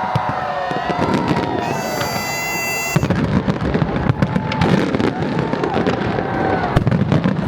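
Fireworks display bursting and crackling, with a crowd's voices. A steady high tone sounds from about two to three seconds in, and after that the cracks and bangs come thick and fast.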